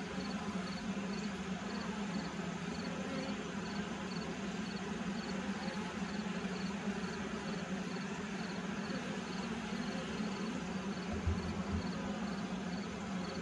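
A colony of honey bees buzzing steadily around an opened horizontal hive as its frames are worked, a continuous low hum.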